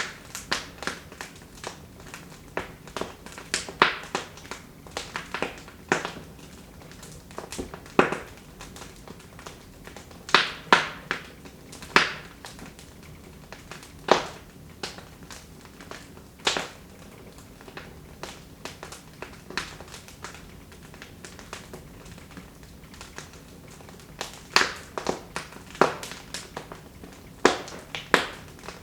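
Wood fire in a fireplace crackling: irregular sharp pops and snaps, some in quick clusters, over a faint low hum.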